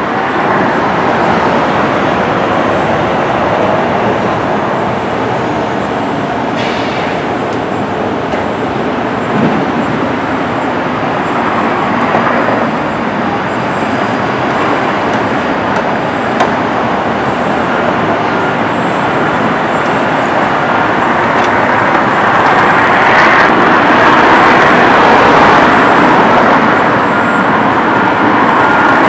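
Steady road-traffic noise, growing somewhat louder near the end.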